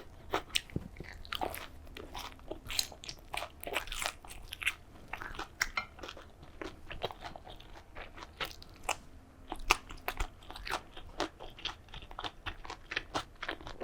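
A person chewing crisp food close to the microphone, with many small, irregular crunches.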